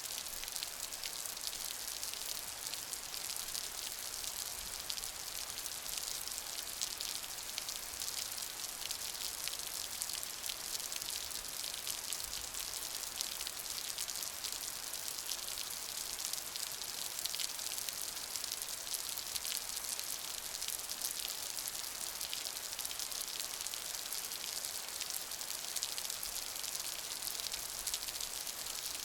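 Steady rain, a dense even hiss of many drops pattering on a surface.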